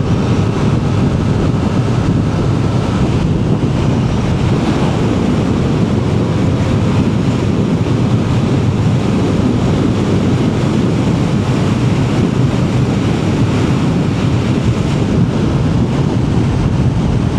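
Steady wind rush over the microphone of a motorcycle riding at speed, with the bike's engine running underneath.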